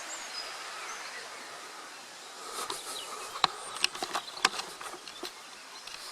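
Steady outdoor hiss, then about halfway in a run of sharp snaps and clicks: footsteps on twigs and the forest floor.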